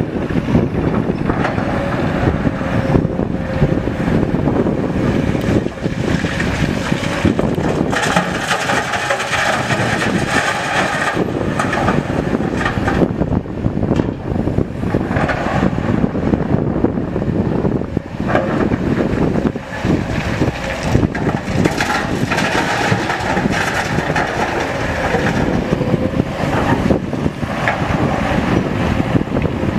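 Heavy diesel machinery running steadily: a dense, low engine noise with a faint whine that comes and goes twice.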